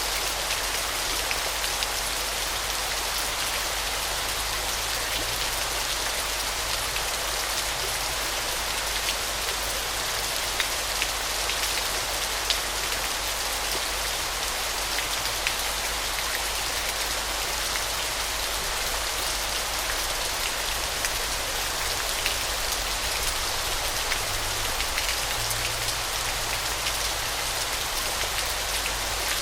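Waterfall: a steady, even rush of falling water with many small splashes and droplets ticking through it.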